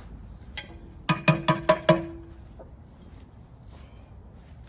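A quick run of five sharp knocks, about five a second, each with a short ring and a steady ringing tone under them: hard parts of a display's supports knocking together as they are handled.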